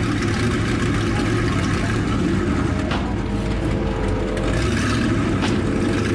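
Demolition derby truck engines running, a steady loud rumble, with two brief clicks about three and five and a half seconds in.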